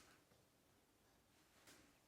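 Near silence: faint room tone, with one brief soft rustle near the end.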